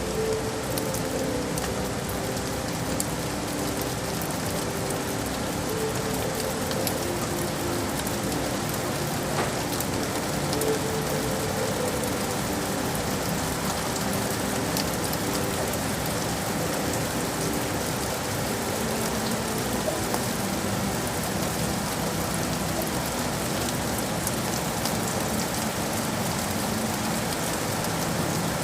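Steady rain falling on hard surfaces, an even hiss with a patter of drops, with faint low held tones underneath.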